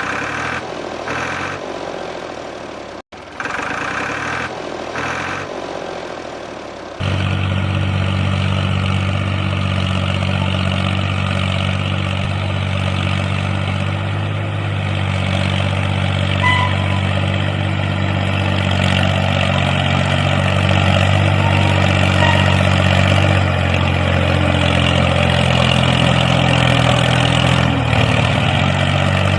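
Engine-like running sound, steady and even, starting abruptly about seven seconds in. Before that comes a choppy stretch of pulsing sound, broken by a sudden cut.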